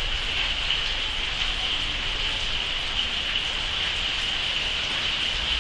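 Steady rain falling: an even, unbroken hiss with a faint low rumble underneath.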